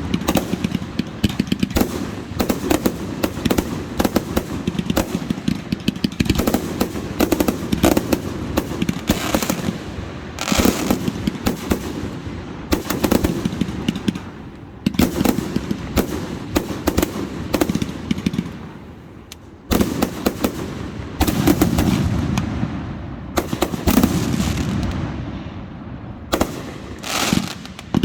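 Fireworks display: a dense barrage of sharp cracks and booming shell bursts over a low rumble. There is a brief lull about eighteen seconds in before the barrage picks up again.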